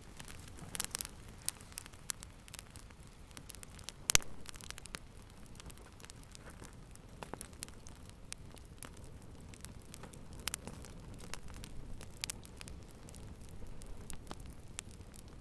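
Wood fire burning in a fireplace, with a steady low hiss and irregular crackles and pops, one sharp pop loudest about four seconds in.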